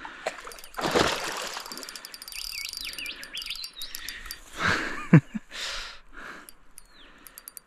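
Birds chirping, a quick run of short rising-and-falling calls about two to three seconds in and another near the end, over louder bursts of rushing noise about a second in and near the middle.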